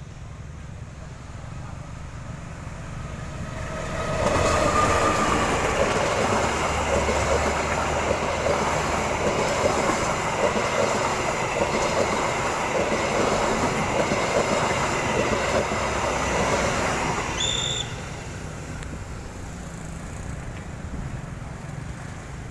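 Train passing close by: the noise builds over the first few seconds, stays loud and even for about thirteen seconds, then drops off suddenly as the train clears, with a brief high squeal just as it drops.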